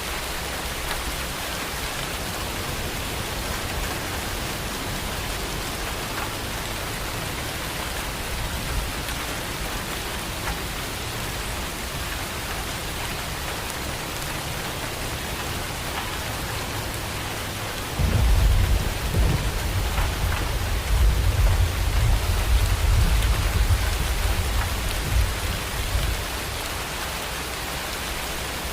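Steady rain falling throughout. About two thirds of the way in, a loud, low rumble of thunder sets in suddenly and rolls on for several seconds before easing back to the rain alone.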